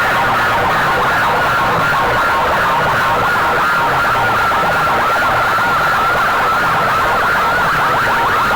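Competition sound-system speakers blasting a loud, rapidly warbling siren-like effect, with a low repeating pulse underneath.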